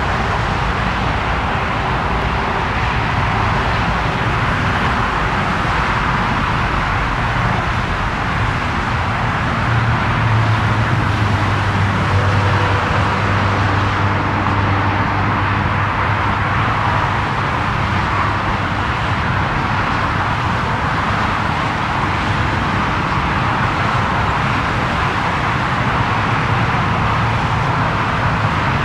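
Steady jet engine noise from a Lufthansa Airbus A340-300's four CFM56 turbofans, swelling slightly with a deeper hum about ten seconds in before easing back.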